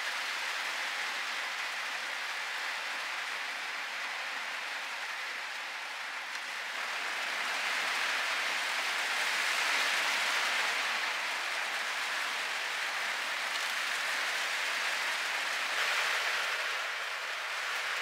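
Heavy rain falling steadily, a little louder for a few seconds near the middle.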